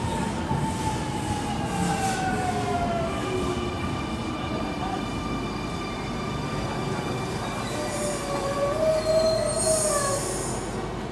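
Double-deck electric suburban train moving along the platform, its wheels squealing in several high tones that slide slowly in pitch over a low rumble. A short hiss of air comes near the end.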